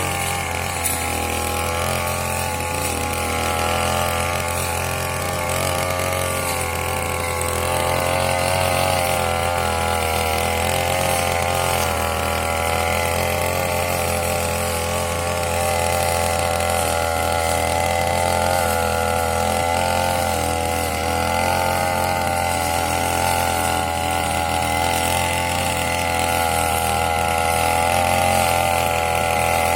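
Grass-cutting machine (brush cutter) engine running steadily, its pitch wavering slightly up and down.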